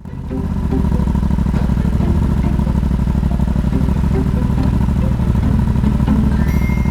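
Yamaha XSR700's parallel-twin engine, breathing through an SP Tadao Power Box Full RS exhaust, running steadily at low revs with an even pulsing exhaust note.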